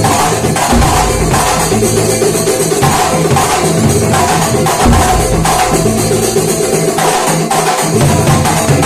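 Kuntulan music: a percussion ensemble of frame drums beating a steady, even rhythm over steady held pitched tones.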